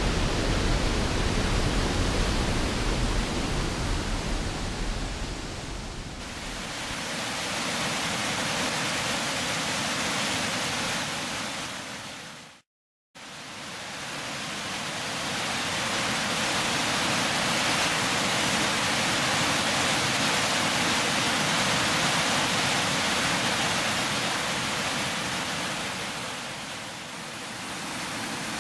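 Waterfall with heavy flow: a steady, loud rush of falling water. A deeper rumble underneath fades out about six seconds in, and the sound cuts out completely for a moment near the middle before the rush returns.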